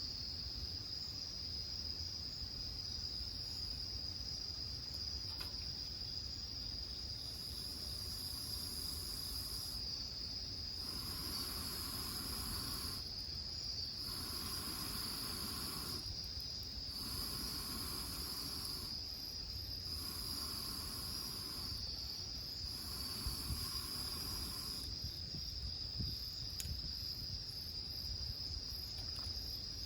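Crickets chirring outdoors: one high, continuous trill throughout, joined by a second insect calling in about six regular bursts of roughly two seconds each, one every three seconds or so.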